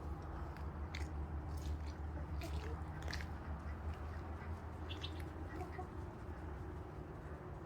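Chickens in the yard: a few short scratchy clicks and a brief high chirp about five seconds in, over a steady low rumble.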